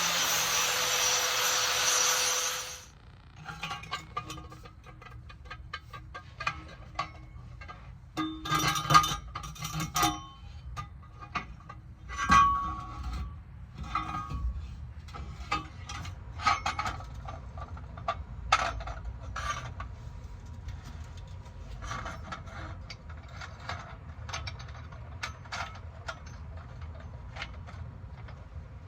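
A power tool cutting or grinding, a loud steady noise with a whine in it, stops about three seconds in. It is followed by scattered clinks and knocks of metal parts and tools being handled.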